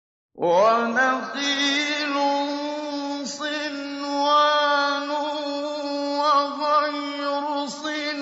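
A male Quran reciter's voice in slow, melodic mujawwad style in maqam Nahawand, holding one long drawn-out note with ornamented turns. It starts about half a second in, after silence, with brief dips in pitch about three seconds in and again near the end.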